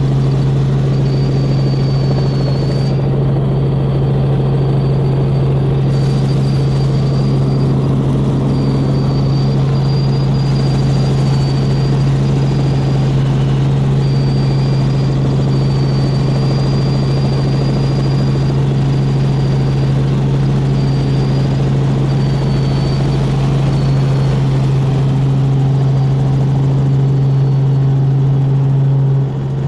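Helicopter in flight, its rotor and engine making a loud steady drone, with a faint high whistle that comes and goes.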